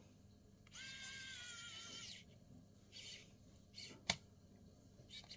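A squeak lasting about a second and a half from hand work on socket wiring, then a short rustle and a couple of sharp clicks.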